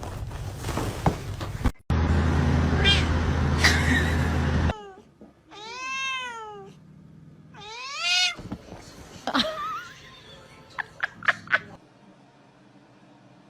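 A domestic cat meowing twice: a long drawn-out meow that rises and falls in pitch, then a shorter one. Before the meows there is a loud steady noise with a low hum; after them come a few sharp knocks.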